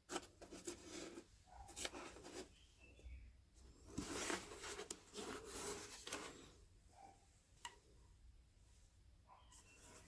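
Irregular scratching, rubbing and rustling with sharp clicks, as of cardboard being handled and worked by hand; the busiest stretch is about four to six seconds in.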